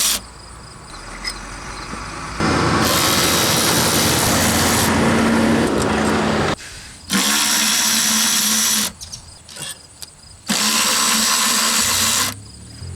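A handheld power tool with a 10 mm socket runs in three bursts, the first about four seconds long and the next two shorter, backing out the throttle body bolts.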